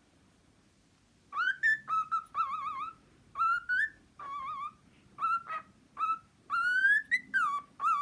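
Cockatiel whistling: a string of short whistled notes, some warbling up and down and some gliding upward, starting about a second in.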